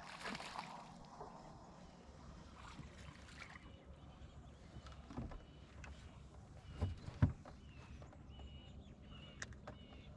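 Quiet background aboard a fishing boat, broken by scattered knocks and taps, the two loudest about seven seconds in. Faint short chirps come in over the last few seconds.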